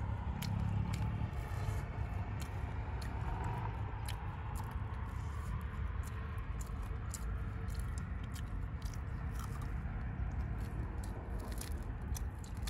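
Close chewing of grilled food: irregular soft clicks and smacks of mouths eating, over a steady low rumble.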